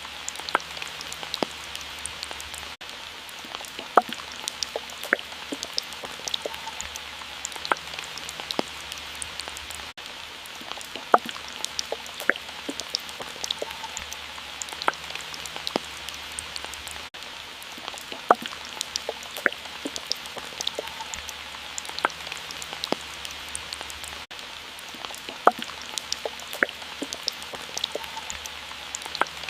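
Water drops falling irregularly, each a sharp plink, over a steady watery hiss. The pattern has a brief dip about every seven seconds.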